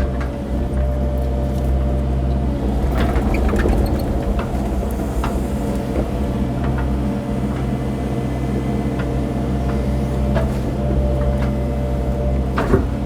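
Cat mini excavator's diesel engine running steadily while the machine works, with a few clicks and knocks and a sharper knock near the end.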